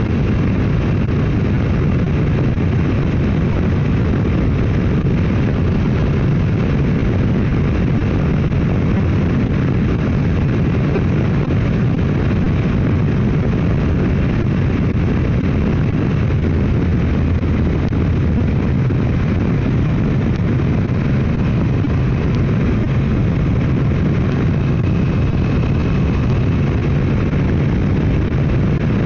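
Motorcycle riding at a steady highway speed: the engine runs evenly under a constant rush of wind on the microphone.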